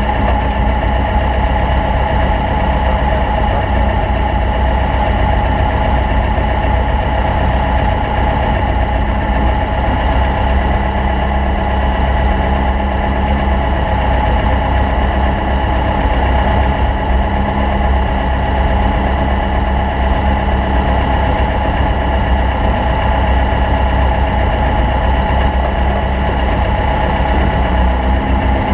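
Stock VW Beetle race car's air-cooled flat-four engine running steadily with a heavy, even drone, wavering slightly in pitch near the end.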